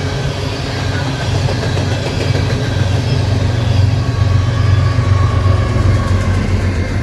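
An empty coal freight train passing, with the low, steady drone of its diesel locomotive engines and the rumble of the train. The sound grows louder about halfway through.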